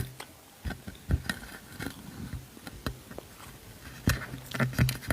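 A person eating close to the microphone: chewing and biting food, with scattered small clicks and crunches and a short low hum about four seconds in.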